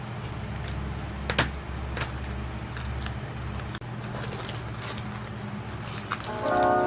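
Scattered light clicks and taps over a low steady hum, with a few sharper ticks in the first two seconds; a chiming music tune comes in near the end.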